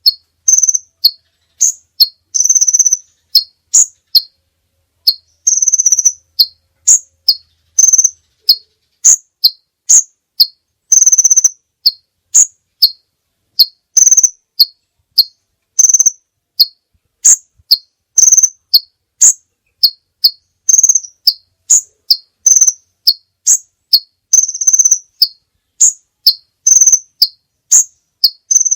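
Masteran training recording of short, high chirps, about two a second, alternating between two pitches, with a longer held note every few seconds and clean silence between notes.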